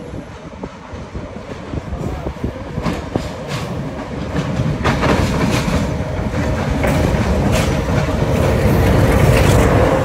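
Diesel locomotive hauling a passenger train past and beneath the listener, its engine rumble growing steadily louder as it comes closer. The wheels click over the rails as the coaches pass.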